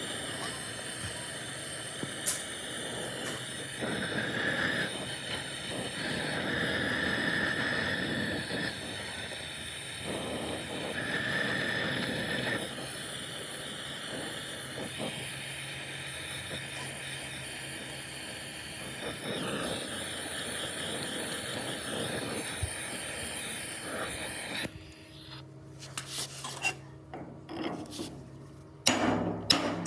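Continuous abrasive grinding or sanding on metal with a fluctuating whine. It stops about 25 seconds in, and a series of sharp metallic taps follows.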